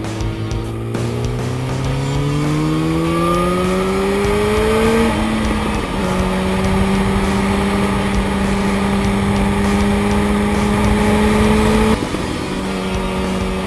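Yamaha FZ1's inline-four engine pulling under way. Its pitch climbs for about five seconds, drops at an upshift, then rises slowly before dropping again at a second upshift near the end.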